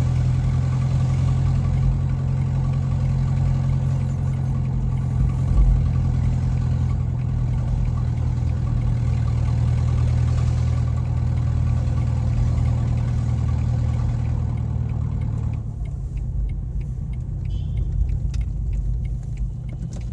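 2007 Renault Scenic's engine running with a loud, steady low drone that sounds like a tractor, because exhaust is escaping where a joint in the exhaust pipe has broken. After about fifteen seconds the sound becomes more muffled, with a few clicks.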